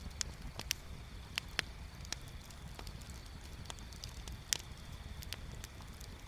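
Wood bonfire crackling, with sharp irregular pops and snaps, the loudest about four and a half seconds in, over a low steady rumble.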